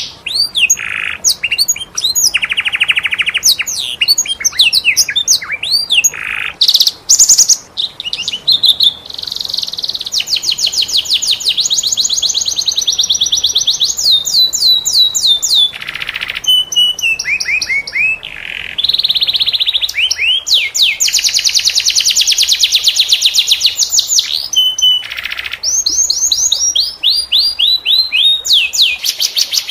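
Domestic canary singing continuously and energetically: long fast rolling trills, rapid strings of repeated notes and quick falling whistled glides, with only brief breaks between phrases.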